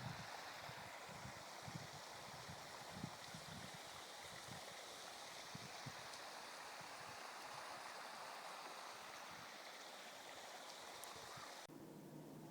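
Faint, steady rushing of running water, with a few soft low knocks. It cuts off abruptly near the end, leaving a quieter hum.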